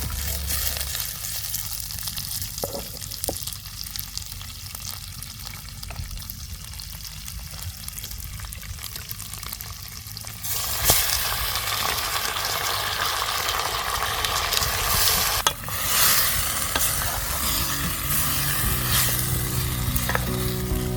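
Food frying in a pan, sizzling while it is stirred; the sizzle gets much louder about halfway through.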